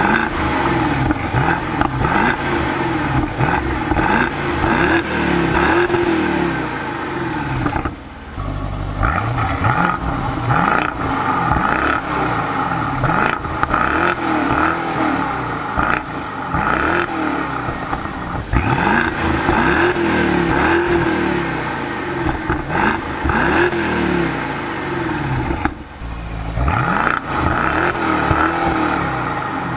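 BMW 650i F12's twin-turbocharged 4.4-litre V8 being revved repeatedly through its exhaust, the engine pitch rising and falling in a series of blips. It drops back briefly twice between bursts of revving.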